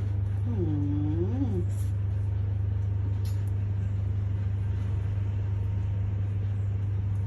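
A steady low hum, with a person's short hummed vocal sound about half a second in that dips and then rises in pitch.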